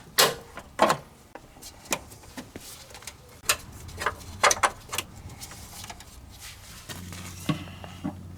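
Irregular sharp clicks and clacks of tools and metal fittings being handled as a car's underbody fuel lines are taken off. Near the end a steady low hum begins.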